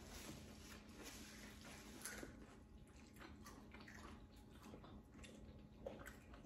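Near silence: quiet room tone with a few faint, soft clicks, about two seconds in and again near the end.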